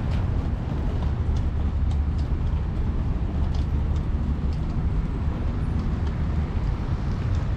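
City street ambience: a steady low rumble of road traffic, with faint scattered ticks and taps.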